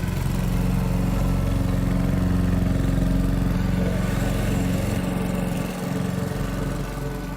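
A heavy engine running steadily with a low, even drone, a machine sound effect in an animated cartoon; it eases off slightly near the end.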